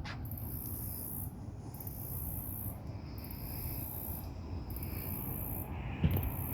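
Insects trilling high and steadily in stretches of about a second, broken by short gaps, over a low rumble.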